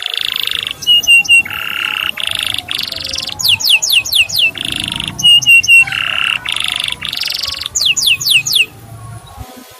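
Male canary singing: quick runs of falling whistled notes alternating with buzzy, rattling trills and short repeated chirps, the song stopping about a second before the end.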